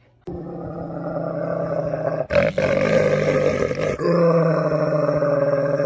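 An animal's long, low, drawn-out growl, held at a steady pitch and briefly broken about two and four seconds in.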